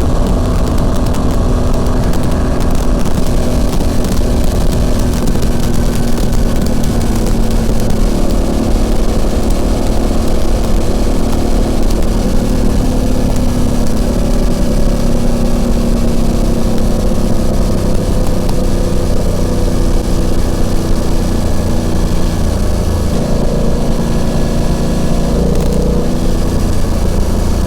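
BMW F900XR's parallel-twin engine and exhaust running under way, with a heavy rush of wind on the microphone. The engine note slowly falls through the middle and changes again near the end.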